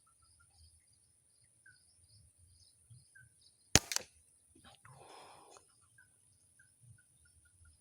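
Air rifle shot: one sharp crack about four seconds in, quickly followed by a second smaller knock and about a second of rustling. Underneath runs a steady high insect drone and a string of short, evenly spaced pips.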